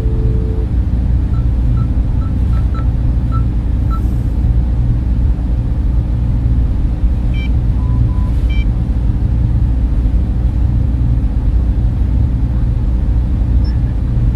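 Server room cooling fans running in a steady, loud drone, heaviest in the low end, with a steady hum. A few faint short high tones sound in the first few seconds and again around the middle.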